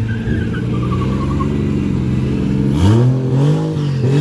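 Japanese car engine holding a steady note, then revved hard about two and a half seconds in, its pitch climbing, dipping and climbing again.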